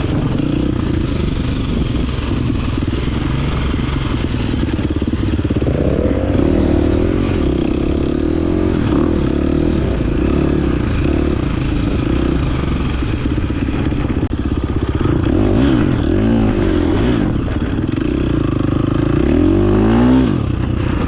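Dirt bike engine running under way, revving up and easing off several times, with a sharp climb in revs just before the end.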